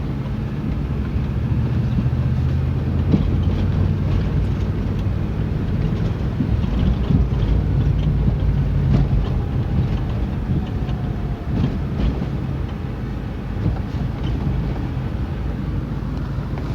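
A Jeep's engine running while driving, its pitch shifting as the revs change, with road and wind noise and scattered clicks.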